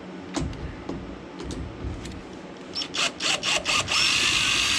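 Power drill backing out a screw. A few light clicks and taps first, then a quick run of five or six short pulses about three seconds in, then the drill running steadily near the end.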